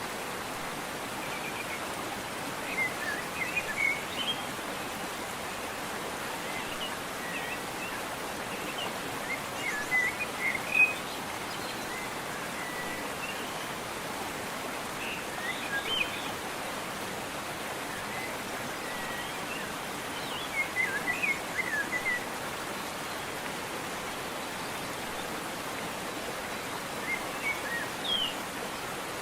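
Steady rushing of a waterfall, with a small bird chirping in five short bursts spread through.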